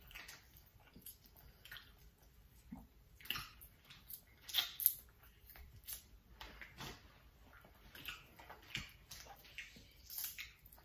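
Close-miked wet eating sounds: chewing and lip smacking on saucy seafood-boil food, a string of faint, irregular squishes and clicks.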